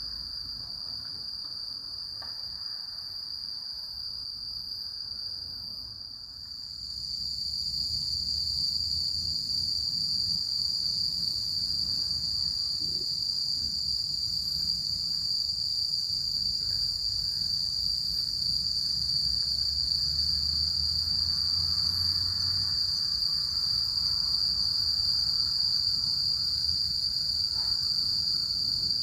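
Autumn crickets in a steady night chorus, one continuous high-pitched ring with no breaks. It grows louder about six seconds in.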